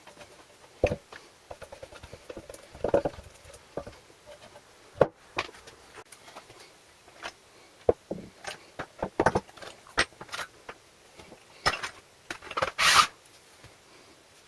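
Irregular clicks, taps and scrapes of tools and small engine parts being handled on a workbench, with a short scraping burst about three seconds in and a longer, louder one near the end.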